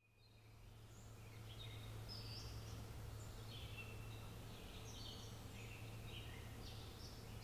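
Birds singing and chirping faintly over a steady low hum, fading in from silence over the first second or two.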